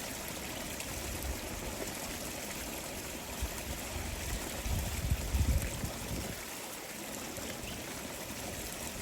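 Steady rush of flowing water, with a few low rumbles about five seconds in.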